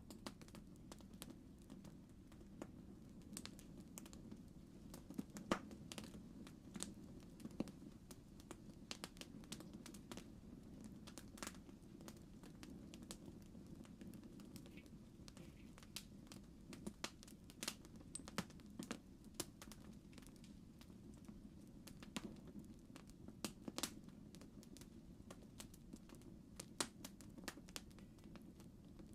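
Campfire crackling: irregular snaps and pops, a few louder than the rest, over a low steady rumble of burning.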